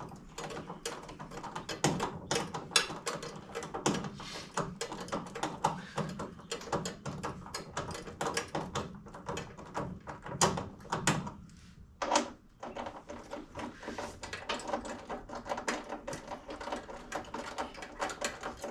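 Irregular clinks, taps and knocks of hand tools and metal parts being handled during engine assembly work.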